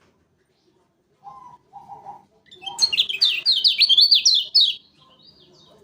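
Kecial kuning (white-eye) singing: a few soft, lower notes, then about two seconds of loud, rapid, zigzagging high-pitched notes that stop abruptly.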